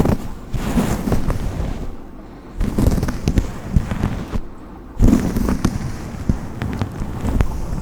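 A brush drawn through hair or a coat in three scratchy, crackling passes, each a second or two long with short pauses between.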